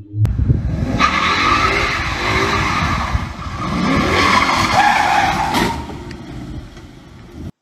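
Car tyres skidding and squealing over engine noise for several seconds, then fading, before the sound cuts off suddenly near the end.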